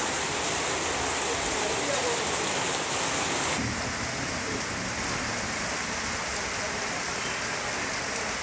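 Heavy rain pouring onto a flooded paved alley: a steady, dense hiss of drops splashing on water and stone. The hiss drops slightly about three and a half seconds in.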